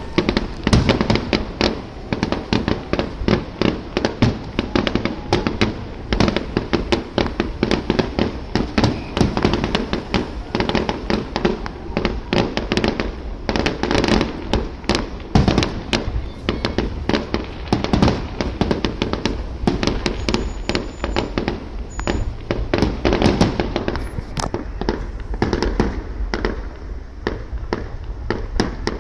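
Aerial firework shells bursting in a rapid, continuous barrage of sharp bangs, several a second.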